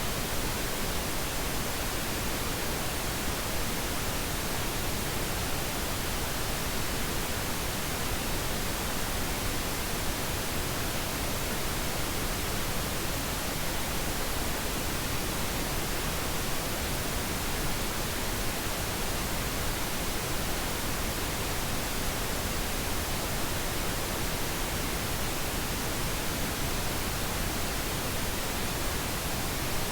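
Steady pink noise: an even, unchanging hiss with no events.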